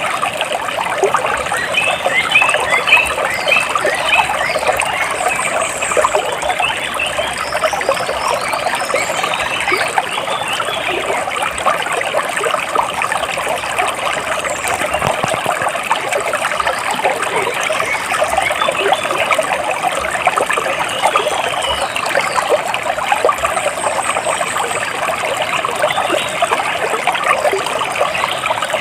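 Water splashing and trickling steadily, with birds chirping over it, most busily in the first few seconds.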